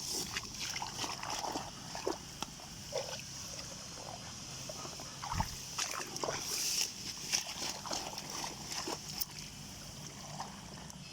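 Shallow water sloshing and splashing with scattered rustles and knocks as someone wades and scoops through a waterlogged ditch, over a steady high drone in the background.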